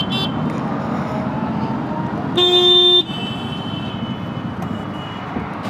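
A vehicle horn gives one short, loud honk about two and a half seconds in, over steady road traffic noise.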